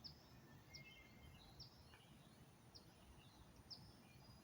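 Near silence with faint background hiss, broken by five very short, high chirps that fall in pitch, about one a second, from a small bird.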